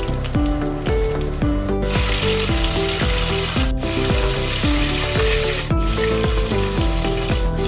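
Minced garlic sizzling in hot oil in a wok as a metal spatula stirs it, under instrumental background music with a melody and bass. The sizzle grows louder about two seconds in, and the sound drops out for an instant about every two seconds.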